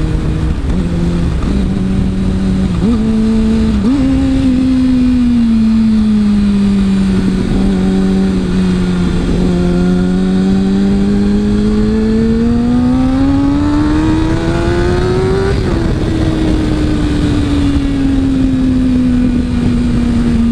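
Sport motorcycle engine under the rider, with steady wind rush. The revs step up in a few quick jumps over the first four seconds like downshifts, then sag. From about nine seconds in they climb steadily under acceleration, drop suddenly at an upshift about fifteen seconds in, and then ease off slowly while cruising.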